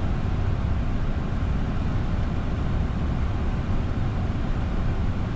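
Steady flight-deck noise in a Boeing 747-400 freighter's cockpit on short final to land: a constant deep rush of airflow and engines, unchanging throughout.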